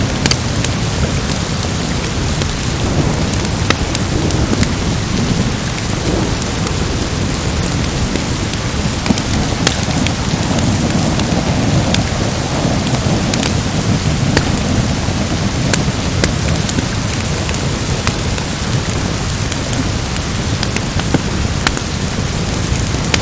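Storm ambience: steady heavy rain over a continuous low rumble of thunder. Scattered sharp crackles and pops run through it, the crackling of a log fire mixed in.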